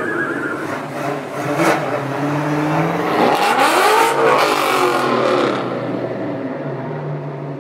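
A car engine revving up and dropping back about three seconds in, over a steady low engine hum.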